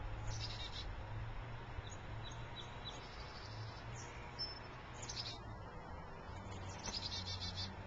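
Small birds chirping: scattered short high chirps, then a quick run of repeated notes near the end, over a steady low hum.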